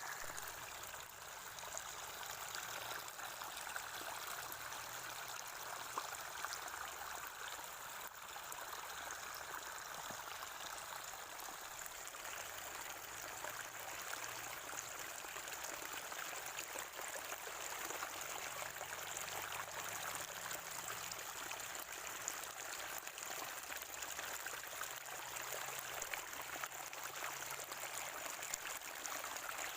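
Natural spring water gurgling and trickling steadily, with many small splashes.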